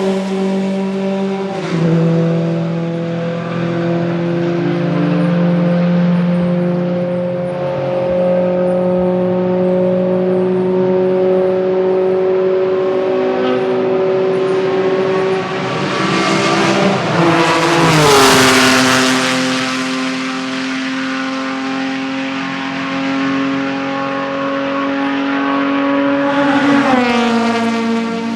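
Vintage race car engines running at speed, several exhaust notes held steady at high revs. A car passes close about eighteen seconds in, its note loudest there and dropping in pitch as it goes by. Pitch falls again near the end.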